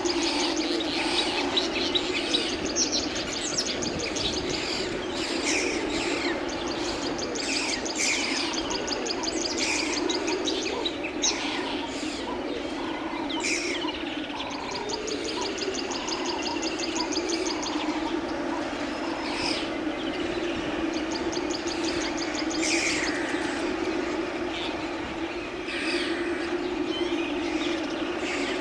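Several birds chirping and calling, with rapid high trills that recur every few seconds, over a steady low hum.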